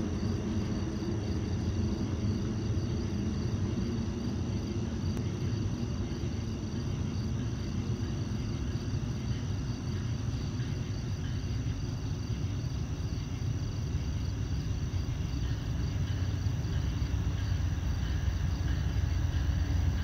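Low, distant rumble of an approaching GE P42DC diesel locomotive and its train, growing slightly louder near the end. Insects chirp steadily in the background.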